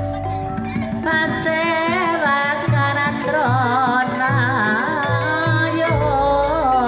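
Banyumasan tayub gamelan music: a sinden's wavering, ornamented vocal line comes in about a second in over sustained gamelan tones, with a run of low drum strokes in the middle.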